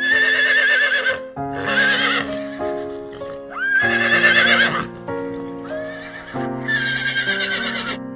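Horse neighing four times, each a wavering whinny about a second long.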